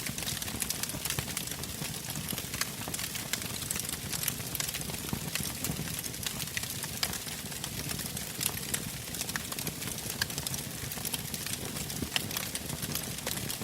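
Wood fire burning in a fireplace, crackling steadily with many sharp, irregular pops over a low rumble of the flames.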